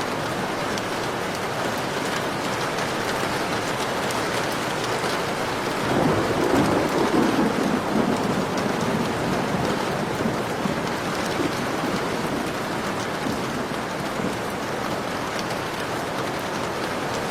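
Heavy rain falling steadily, with a roll of thunder that swells about six seconds in and dies away over a few seconds.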